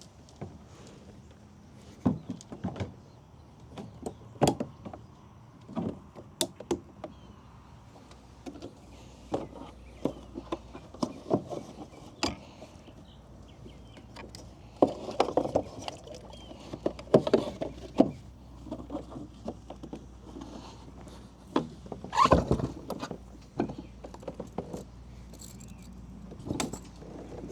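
Irregular knocks, clicks and rattles of fishing gear being handled in and against a kayak, with a louder clatter about 22 seconds in.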